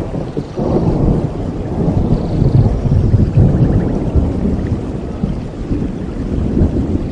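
Rolling thunder over steady rain: a deep rumble that swells about half a second in, is loudest in the middle and slowly dies away.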